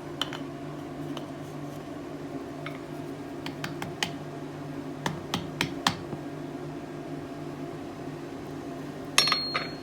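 Forge air blower running with a steady hum, over light metallic clicks and taps from tools and steel being handled. A sharper metal clang about nine seconds in rings briefly.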